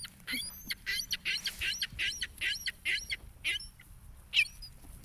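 Waterbirds calling: a quick run of about a dozen short, high calls, roughly three a second, then a pause and one louder call near the end.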